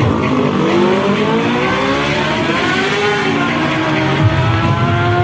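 Drag-racing motorcycle engines revving, more than one engine at once, their pitch falling and rising. In the last couple of seconds one engine's note climbs steadily as it accelerates.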